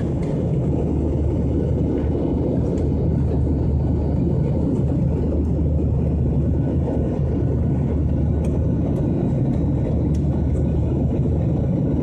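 Steady low rumble of an airliner's cabin noise in flight, from the engines and the airflow over the fuselage.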